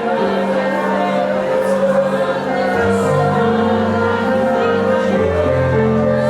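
Worship music: sustained keyboard or pad chords over a moving bass, with congregational singing.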